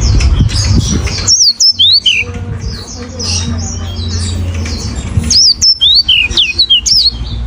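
Yellow-fronted canary singing a fast, crisp song of high whistled slurs and trills, in two rapid phrases with softer twittering between them.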